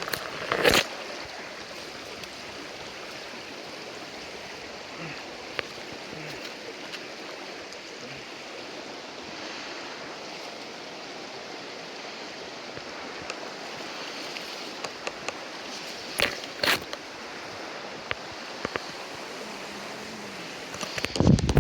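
Creek water running steadily over rocks. A few short, sharp knocks or splashes stand out above it: one about a second in, two close together past the middle, and a cluster near the end.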